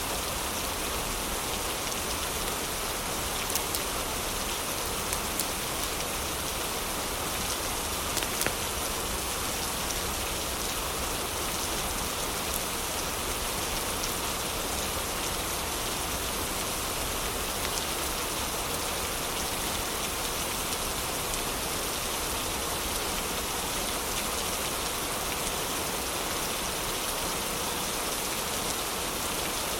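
Heavy rain falling steadily, an even hiss with a few sharper drop hits here and there.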